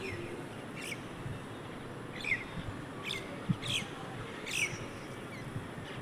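A bird chirping: about six short, high chirps, each sliding quickly down in pitch, spaced irregularly.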